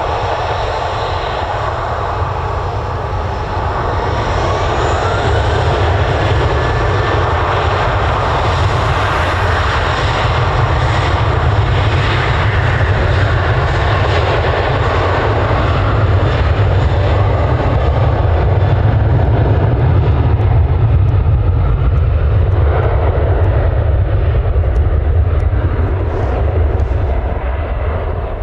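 Fixed-wing aircraft engines running loud, a steady roar with heavy low rumble that swells over about twenty seconds and eases near the end.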